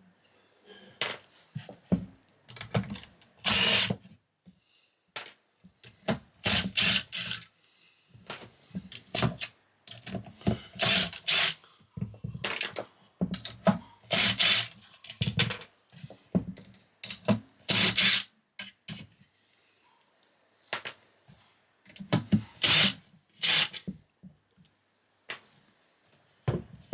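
Cordless power driver spinning in short bursts, about ten times, undoing hex-head bolts, with small clicks and clatter between runs.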